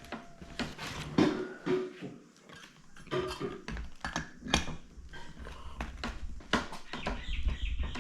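Irregular metallic clicks and knocks of a Stromberg carburettor part being screwed back in and tightened by hand, with a low rumble near the end as the work jostles the table.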